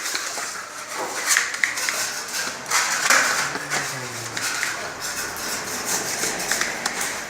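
Irregular scraping with scattered light knocks and clicks, typical of hand work with tools on a surface, with no steady machine running.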